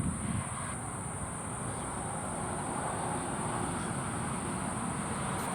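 Outdoor ambience: a steady, high-pitched insect drone, like crickets, over an even low rumble.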